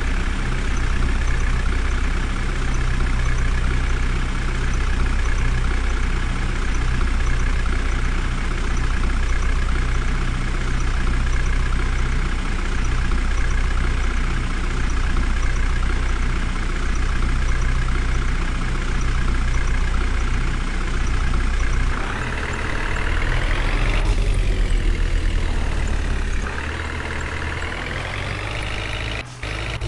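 A heavy vehicle engine running steadily with a low rumble. About two-thirds of the way in the sound changes and its pitch rises and falls over the last several seconds.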